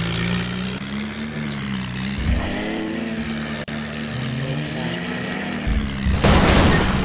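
Swaraj tractor engine running, its pitch rising and falling a few times, then a loud crash-like noise burst about six seconds in.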